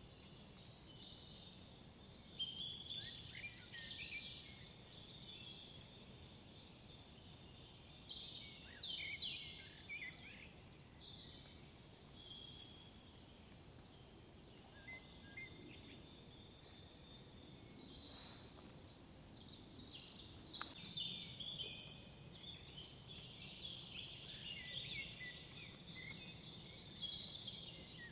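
Several woodland songbirds singing over one another in short chirps, sweeps and warbles. A high, thin trill recurs every several seconds. A faint low background hum runs underneath.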